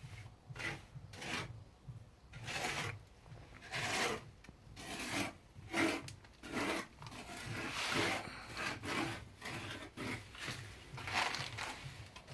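Cement mortar being worked by hand with a plastering tool: repeated scraping strokes, irregular, about one or two a second.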